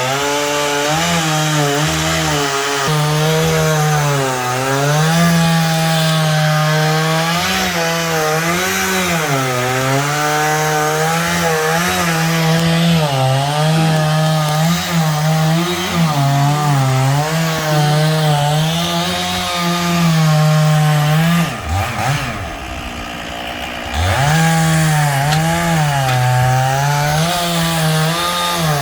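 Stihl chainsaw running at high revs and cutting wood, its pitch wavering under load. Near the end it comes off the throttle for about two seconds, the pitch falling, then revs back up.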